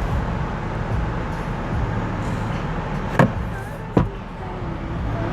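Two sharp clicks about a second apart, from a vehicle glove box latch and lid being worked, over a steady low rumble.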